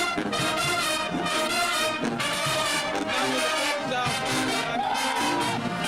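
A marching band's brass section playing loud sustained chords in phrases about a second long, with trumpets, trombones and low brass together.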